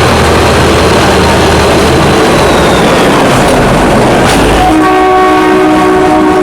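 Loud running noise of a moving train, with a train horn sounding a steady chord from about three-quarters of the way in.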